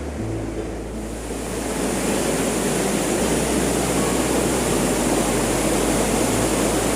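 Rushing water of a waterfall: a steady wash of noise that grows louder about two seconds in.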